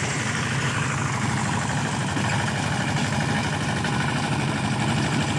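Mini tractor engine running steadily.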